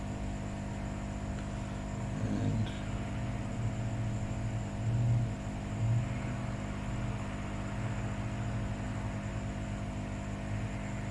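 A steady electrical hum with several fixed tones, under a low rumble that swells and fades a few times.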